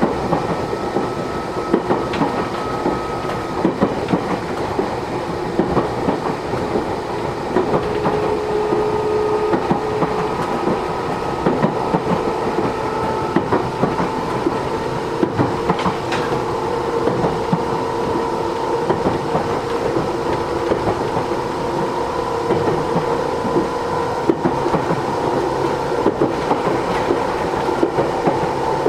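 Matsumoto Electric Railway 3000 series electric train running, heard from inside the passenger car: steady running noise with the repeated clicking of wheels over rail joints and a faint motor whine.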